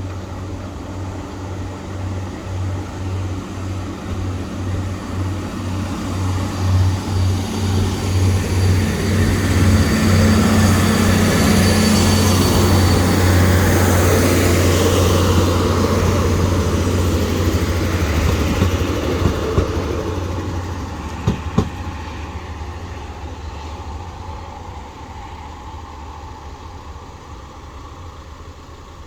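Northern Ireland Railways diesel train passing over a level crossing: a low pulsing rumble that grows to its loudest about halfway through, with two sharp clicks shortly after, then dies away as the train leaves.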